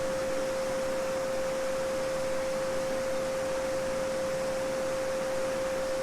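A steady 528 Hz pure sine tone (the "Solfeggio frequency") held unbroken, over the soft continuous rush of a babbling brook.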